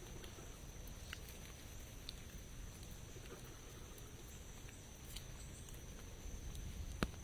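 Rain falling, a soft steady patter with scattered drops ticking, and one sharper tick near the end.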